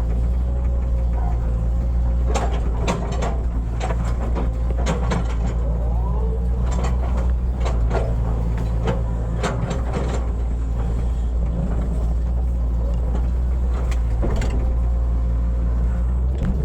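Hitachi hydraulic excavator's diesel engine running steadily while it digs, with a steady whine over the engine and repeated sharp clanks and scrapes through the middle as the bucket works the ground.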